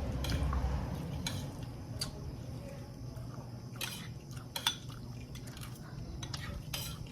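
Eating utensils clinking and scraping against plates and bowls during a meal: a dozen or so scattered light clicks at irregular moments.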